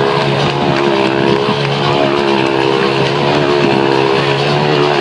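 Motorcycle engine running at high, steady revs as it circles inside a steel Globe of Death.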